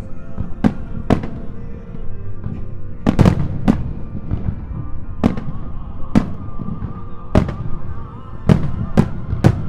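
Aerial firework shells bursting in quick, irregular succession, about ten sharp bangs, over music playing.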